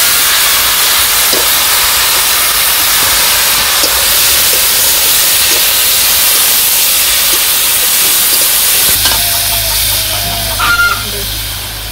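Tomatoes and dried fish (shutki) sizzling loudly in hot oil in an iron kadai as they are stirred with a metal spatula. About nine seconds in, a low steady hum comes in, followed by a brief higher sound.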